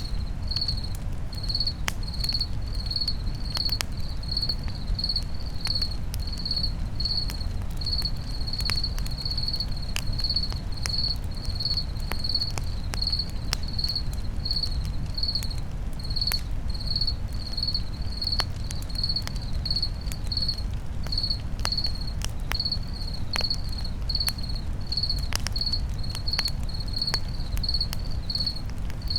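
A cricket chirping steadily, about one and a half chirps a second, over a crackling campfire with scattered sharp pops and a low steady rumble.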